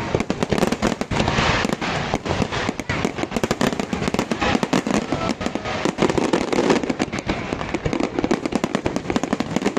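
A fireworks display going off in rapid succession: a dense, continuous barrage of bangs and crackles, many every second.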